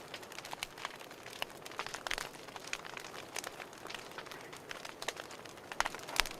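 Fireplace fire crackling: irregular sharp pops and snaps over a soft steady hiss, with the loudest pops a little before the end.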